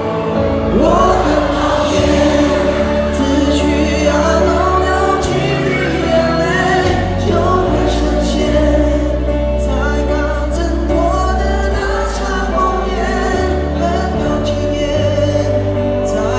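Live band music with singing over a steady bass line.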